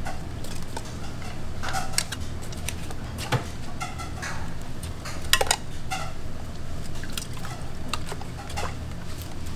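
Food-prep clatter: scattered clinks, knocks and handling sounds of utensils and containers, the loudest about two, three and a half and five and a half seconds in, over a steady low hum.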